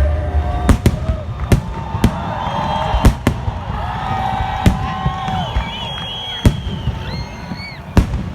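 Fireworks display: a string of sharp bangs from bursting shells, about one a second.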